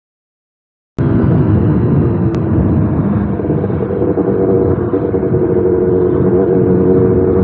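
Kawasaki ZX-10R's inline-four engine running at a steady low pace in slow city traffic, with rumbling road and wind noise on the helmet microphone. The sound cuts in abruptly about a second in, after a second of silence.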